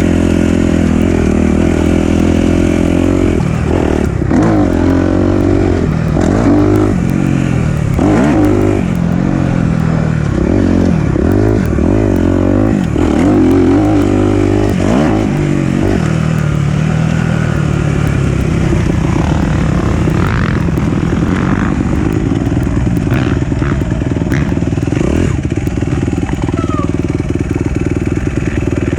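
Four-stroke dirt bike engine running hard on a trail ride, its pitch rising and falling with repeated throttle blips and shifts, then holding steadier for the second half.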